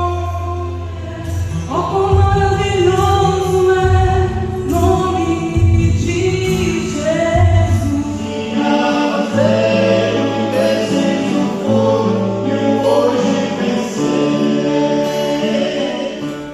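Choir singing in several parts over instrumental accompaniment with sustained low bass notes; the music fades down near the end.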